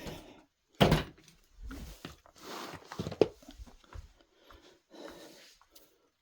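Hand tools being gathered and put away: a sharp knock about a second in and another click a little after three seconds, with rustling handling noise in between.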